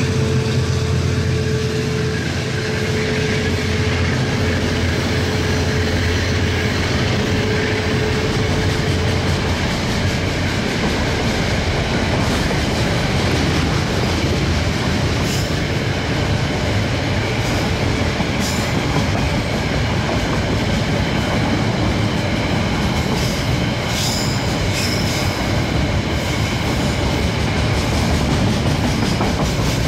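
Container wagons of a diesel-hauled freight train rolling past, a steady rumble of steel wheels on rail. The locomotives' low engine note fades out in the first couple of seconds. Brief high squeals and clicks from the wheels come now and then in the second half.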